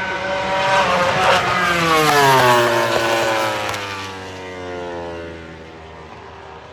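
A MotoGP racing motorcycle passing at speed: the high engine note swells and then drops steadily in pitch as it goes by and fades into a lower drone.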